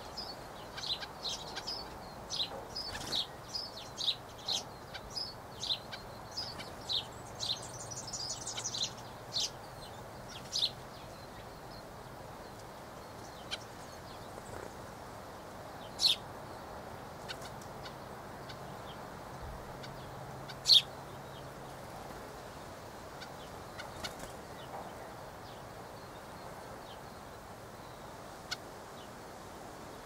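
Small birds chirping: a quick run of short, high chirps over the first ten seconds or so, then a few single chirps spaced seconds apart, the loudest about two-thirds of the way in, over a steady low background hiss.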